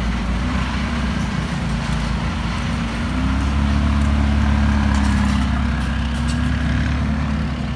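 McLaren 570S GT4's twin-turbo V8 idling steadily, getting louder about three seconds in.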